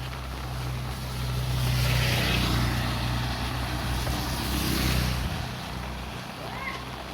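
A motor vehicle passing along the road: a steady low engine hum with a hiss that swells and peaks around two and again around five seconds in, then fades, the hum stopping about six seconds in.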